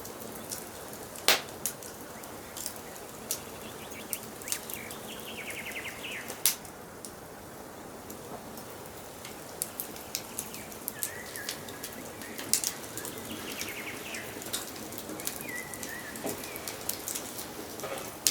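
Wood fire crackling with sharp pops over a steady hiss. Small birds chirp and trill in the background several times.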